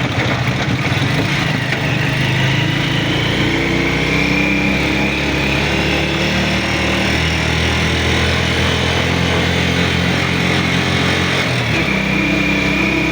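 A motor vehicle engine running steadily over the hiss of heavy rain. Its pitch shifts near the end.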